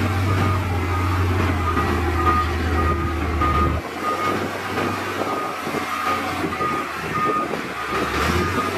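Reversing alarm on heavy earthmoving equipment, beeping about twice a second over a heavy diesel engine. The engine's low drone drops away about four seconds in and comes back near the end.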